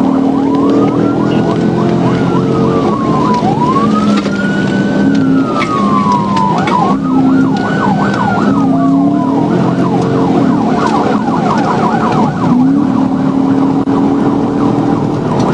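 Police car siren wailing in slow rising-and-falling sweeps, then switching about nine seconds in to a fast yelp for a few seconds, over the steady running of the patrol car at pursuit speed.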